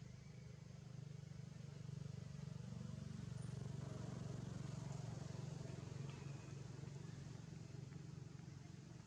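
Faint, low engine hum that grows louder about two seconds in and eases off after about six seconds, like a motor vehicle passing at a distance.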